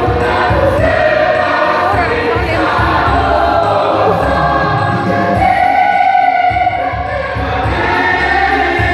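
A church choir singing together in a rehearsal, many voices holding sustained notes.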